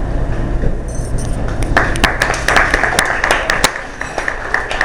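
Small audience clapping: a dense patter of handclaps that starts about a second and a half in, after a poem has ended.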